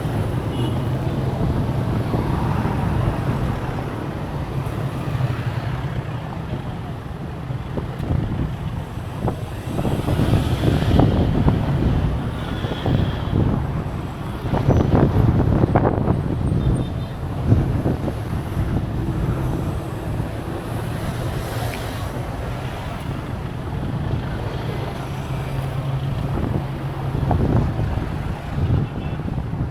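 Wind buffeting the microphone, surging in gusts about a third and half of the way through, over a steady rumble of road traffic.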